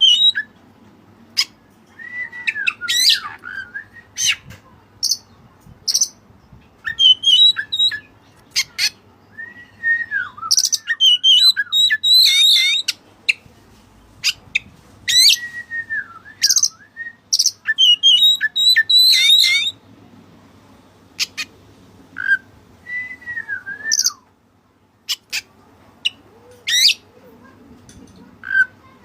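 Oriental magpie-robin (kacer) singing in repeated bouts: clear whistled phrases that dip and rise, mixed with harsh, scratchy notes, with short pauses between bouts.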